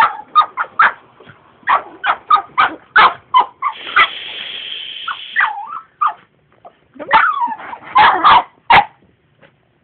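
Poodle barking in quick, sharp yips at a vacuum cleaner. The barking breaks off about four seconds in while the vacuum runs with a steady hiss for about a second and a half, then comes back in bursts of yapping.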